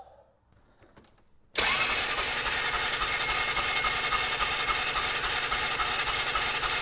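Polaris Ranger engine being cranked over by its starter, a steady mechanical churn that starts suddenly about a second and a half in and never fires, because the ignition coil is giving no spark.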